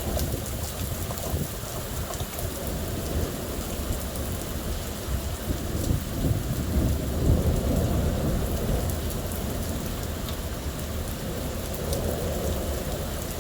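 Steady rain beating down during a thunderstorm, with a low roll of thunder that builds to its loudest about halfway through and then fades.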